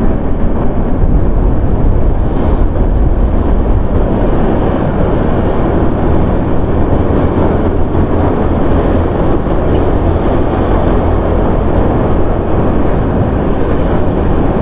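Loud, steady rush of wind and road noise from a vehicle moving along a city street, with a low engine hum underneath.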